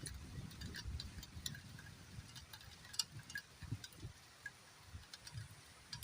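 Raindrops dripping and pattering in scattered, irregular light ticks, one sharper tick about three seconds in, over a low uneven rumble.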